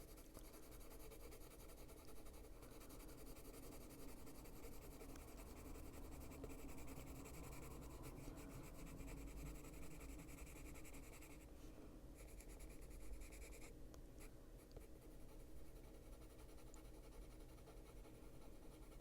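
Faint scratching of Caran d'Ache Luminance coloured pencil strokes on paper, light quick strokes going over the drawing's lines to darken them.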